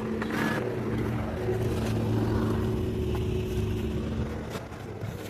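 A motor vehicle's engine running with a steady low hum, growing louder toward the middle and fading near the end.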